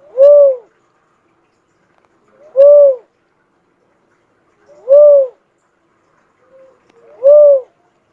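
Cuckoo-dove (uncal) calling: four single coos, each about half a second long, rising then falling in pitch, repeated about every two and a quarter seconds.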